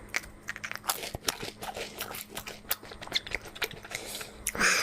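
Close-miked mukbang eating: a person chewing, with many small wet clicks and crunches, and a louder noisy burst near the end. A faint steady hum runs underneath.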